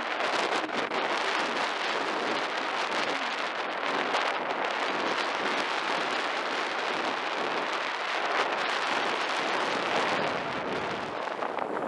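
Wind rushing across the microphone in a steady, unbroken hiss.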